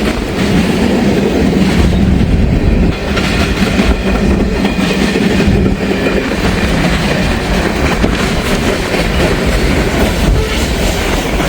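Freight cars of a long Norfolk Southern train rolling past at close range, their wheels clacking over the rail joints in a steady, loud rumble as the last cars go by.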